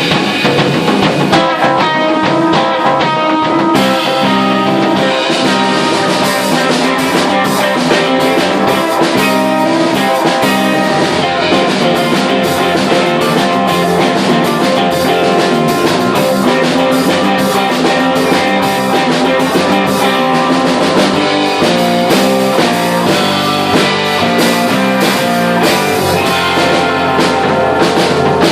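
Live rock band playing: electric guitar over bass and a drum kit with a steady beat.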